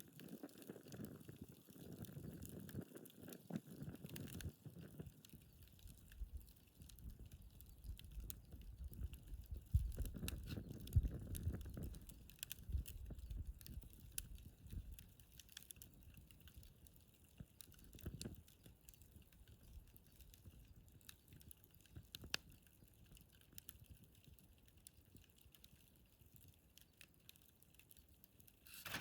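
Wood campfire burning, with scattered small crackles and pops over a low rumble that swells near the start and again about ten seconds in.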